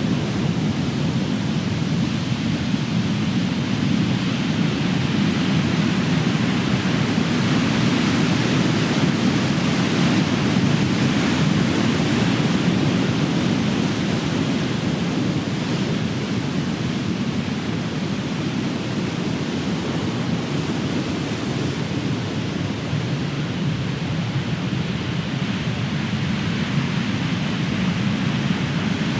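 Ocean surf: big waves breaking and crashing in a continuous deep rumbling wash, swelling a little about a third of the way in.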